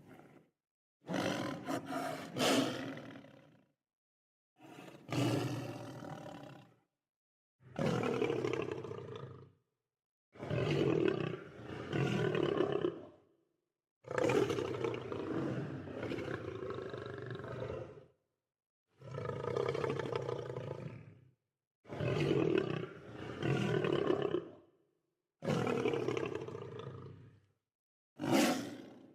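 Lion roars: about nine separate deep calls, each lasting one to four seconds, with dead silence between them.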